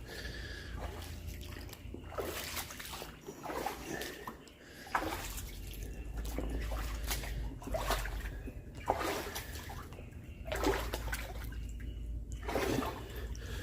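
Boots splashing and sloshing in shallow floodwater: a series of separate, irregular splashes a second or two apart.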